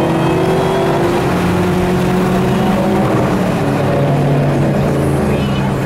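Shelby GT500KR's supercharged V8 accelerating, the engine note climbing in pitch.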